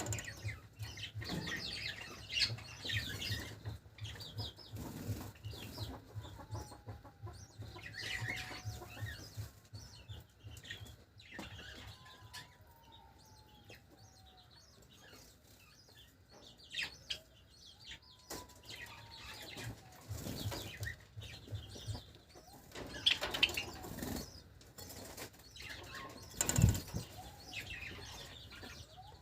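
Java sparrows fluttering their wings again and again and chirping, with a few lower, falling calls now and then.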